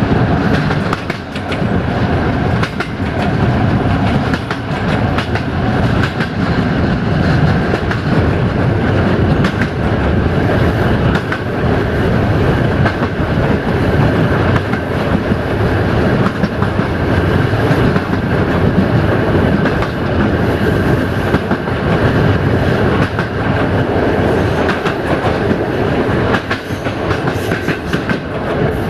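Passenger train coach running along the track, heard from an open window: a steady rumble of wheels on rail with irregular clicks and clacks as the wheels cross rail joints.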